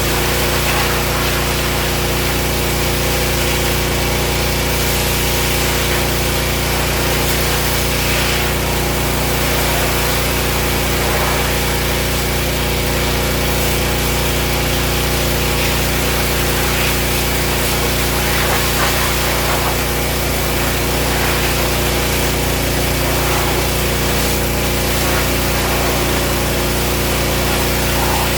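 A motor-driven machine running steadily, with a constant hum and an even hiss.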